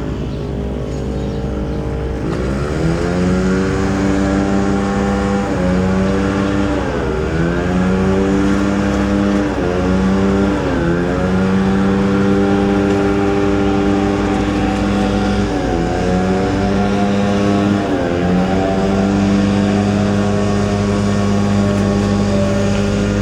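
An engine running at a steady pitch, its note dipping briefly and climbing back several times.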